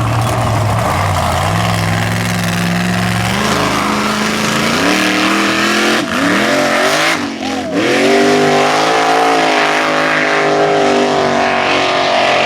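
Mega truck engine running hard at high revs. Its pitch climbs in several steps, drops sharply about seven seconds in, then rises again and holds.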